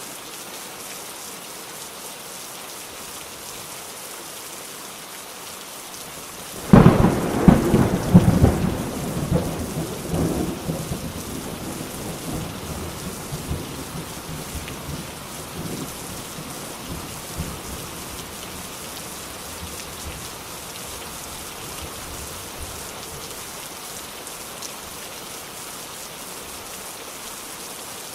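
Steady rain falling, with a thunderclap about six and a half seconds in: a sudden loud crack that rumbles on and fades over about ten seconds while the rain continues.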